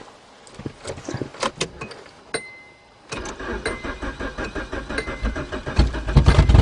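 Clicks of a key in the ignition and a brief dashboard chime, then a car's starter cranking a cold engine with a steady rhythmic pulse. The engine catches near the end and runs.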